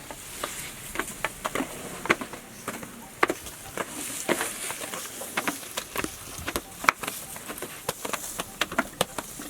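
A steady high insect drone, with irregular sharp clicks and snaps throughout, a few each second.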